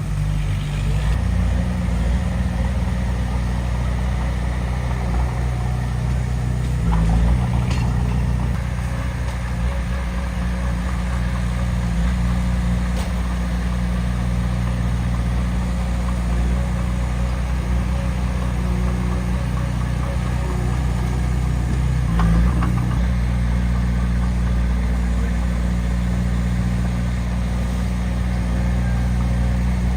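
Heavy diesel engine of earthmoving equipment running steadily, with two brief louder surges, about seven seconds in and again about twenty-two seconds in.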